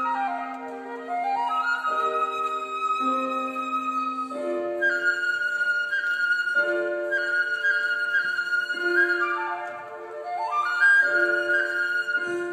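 Concert flute playing classical music: long high notes broken by quick rising runs, over lower accompanying notes.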